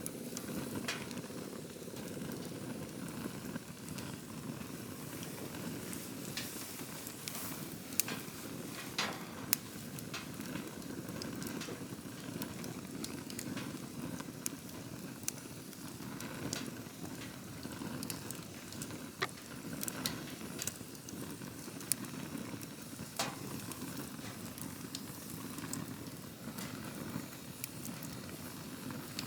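Wood campfire burning: a steady low rush of flame with scattered crackles and sharp pops, a few of them louder than the rest.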